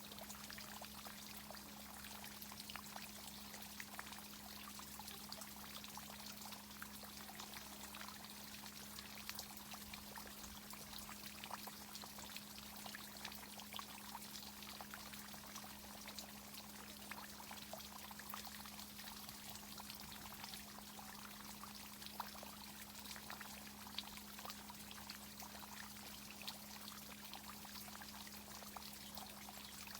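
Water from a tree irrigation system pouring and trickling steadily, with many small ticks through it, over a constant low hum.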